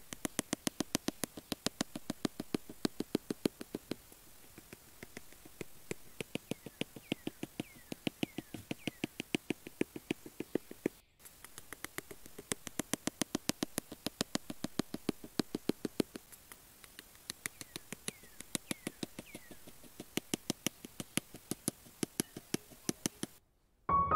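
A rapid series of sharp clicks, several a second, coming in bursts with short pauses between them.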